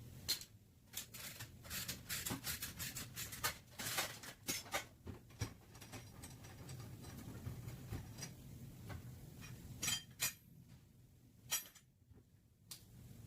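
Irregular light metallic clinks and taps, as of tools and sheet-metal parts being handled during auto body repair, thickest in the first half and sparser near the end.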